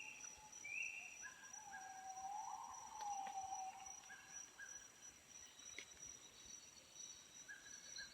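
Tropical rainforest dawn chorus: a steady high insect drone under bird calls. Short high notes repeat quickly at the start, paired whistled notes come back every few seconds, and a longer, lower wavering call rises and falls around the middle.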